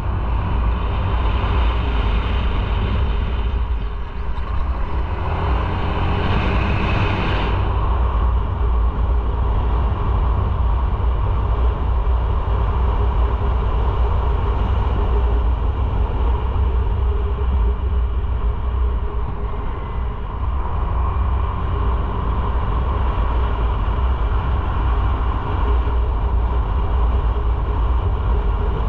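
Motorcycle riding on the road, its engine under a heavy, steady rumble of wind on the microphone. A louder hiss joins from about a second in and cuts off suddenly about seven seconds in.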